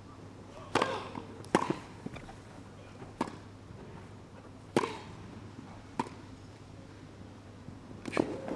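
Tennis ball struck back and forth by rackets in a rally: about six sharp hits roughly a second to a second and a half apart, with fainter bounces between them. The rally ends with a drop shot, and crowd applause is just starting at the very end.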